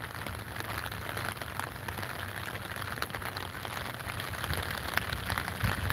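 Steady rain falling on a clear umbrella held overhead: a dense, even patter of small drop ticks. A soft low bump near the end.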